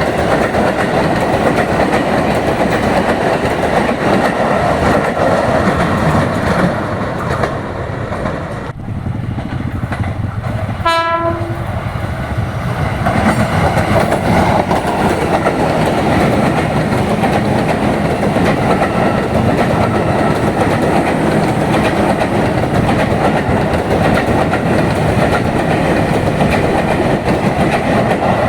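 Ex-JR East 205 series electric commuter trains running past on the track, a loud steady rumble of wheels on rail with clickety-clack. About a third of the way in, the sound briefly drops away, and then one short horn blast sounds before the rumble builds again.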